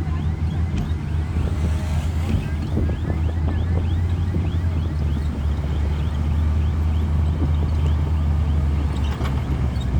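Heavy diesel engine of earth-moving machinery running steadily, a deep, even drone.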